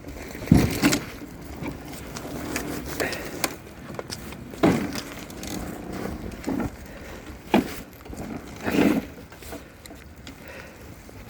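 A series of irregular thumps and knocks over a steady background, the loudest about half a second in and near nine seconds.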